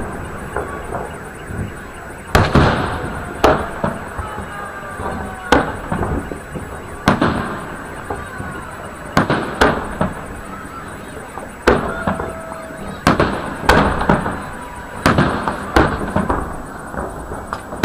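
Fireworks salute shells bursting overhead: about a dozen loud bangs, one every second or two, each trailing off in a rolling echo.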